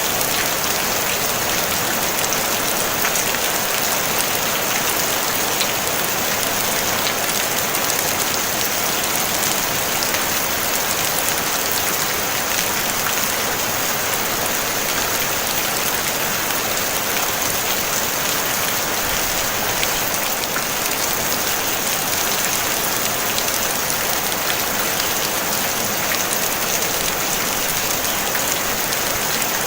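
Steady rain falling on a tin roof: an even, unbroken hiss with many fine drop ticks.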